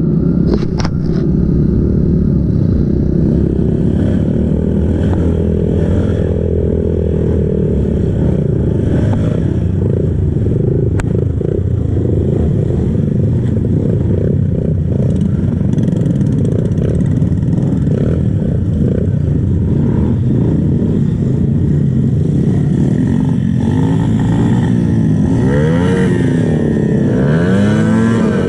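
Kawasaki KLX dirt bike's single-cylinder four-stroke engine, on its stock exhaust, running under load on an off-road trail. Near the end the revs swing up and down several times in quick succession as the throttle is worked.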